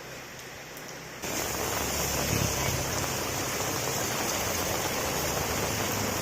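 Heavy rain falling, a steady hiss that becomes suddenly much louder about a second in and stays loud.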